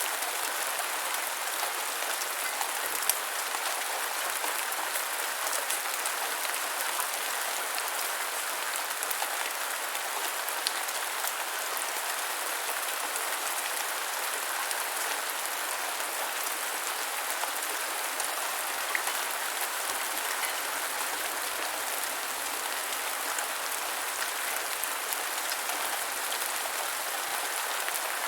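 Steady gentle rainfall: an even hiss of rain with many fine drop ticks, a few of them a little louder.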